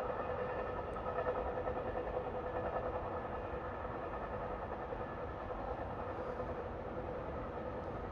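Metra commuter train running through the station without stopping: a steady rumble of wheels on rails with a faint steady hum.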